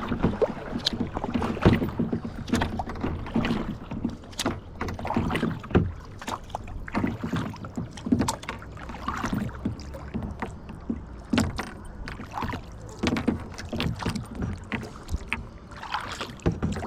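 Water splashing and lapping around a kayak, with many small irregular splashes and light knocks.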